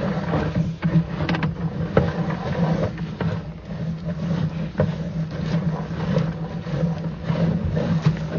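A steady low hum with irregular knocks and scrapes as a sewer camera's push rod is fed through the pipe.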